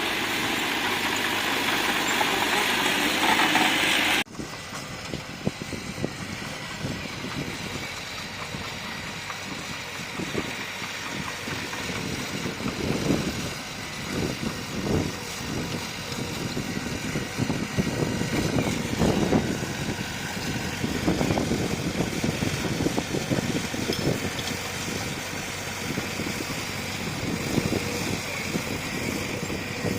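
Bulldozer's diesel engine running, with irregular clanks and knocks of the machine at work. A louder stretch of rushing noise ends abruptly about four seconds in.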